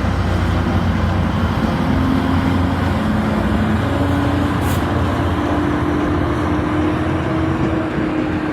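Commuter train running close by: a loud, steady low rumble with a motor tone that climbs slowly in pitch as the train speeds up, and a short high hiss about halfway through.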